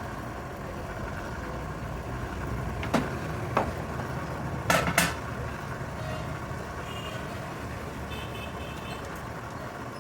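A steady low rumble like a running vehicle engine, with four sharp knocks between about three and five seconds in.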